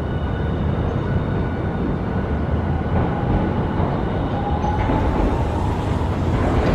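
Hiroshima Electric Railway streetcar (tram) running at a tram stop: a steady low rumble with a faint whine that rises slightly in pitch from about halfway through.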